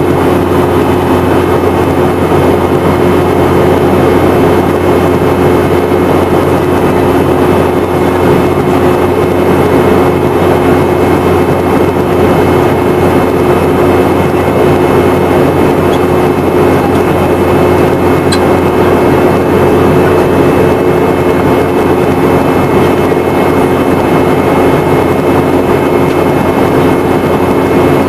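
Steady cabin noise of a Boeing 717-200 in flight, heard from a rear window seat: the tail-mounted Rolls-Royce BR715 turbofans give an even hum with fixed tones over a broad rush of airflow, with no change in engine power.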